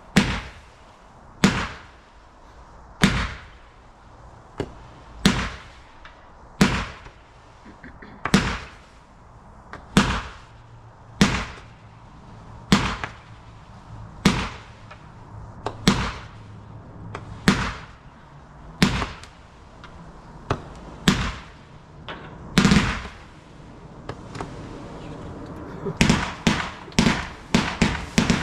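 Garden fireworks going off: sharp bangs about every second and a half, each dying away quickly, then a fast string of bangs near the end.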